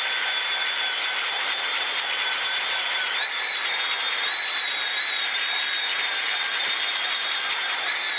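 Belt sander with a coarse 36-grit belt running steadily under load while sanding the top of a wooden stump flat. Its high whine rises slightly in pitch about three seconds in and again near the end.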